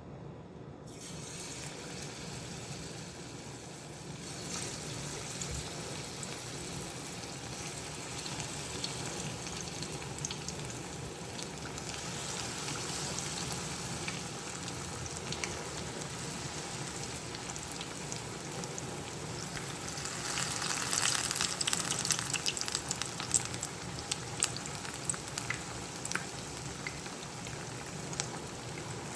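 Batter-coated cauliflower florets frying in hot oil: a steady sizzle full of small crackles and pops. It grows about a second in and is loudest with dense crackling around two-thirds of the way through, as more battered pieces go into the oil.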